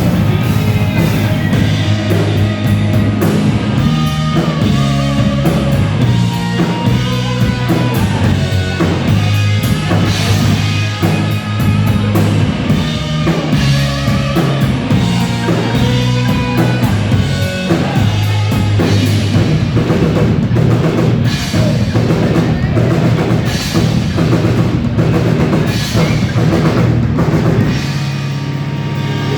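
Live rock band playing an instrumental passage: a drum kit with bass drum and snare keeps a steady beat over bass and guitars.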